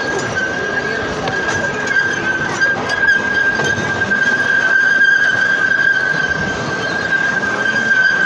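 A train rolling along the track, its wheels squealing in one steady high tone, with scattered clicks and knocks from the wheels and track.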